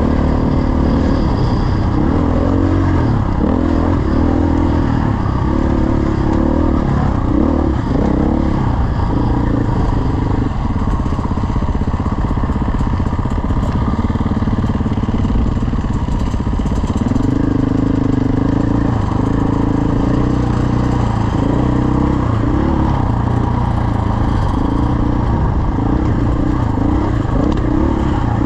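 Dirt bike engine running hard while riding, its pitch rising and falling with throttle and gear changes.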